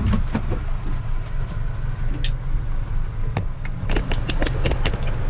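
Boat engine running steadily with a low hum, with a quick run of light clicks and taps about four seconds in.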